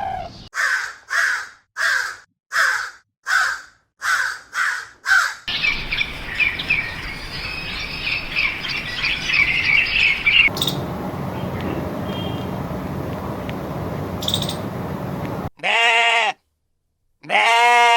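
A run of farm-animal sounds: about nine short bird calls, roughly two a second, then several seconds of dense bird chirping, then a stretch of rumbling noise with no clear calls. Near the end come two drawn-out pitched bleats.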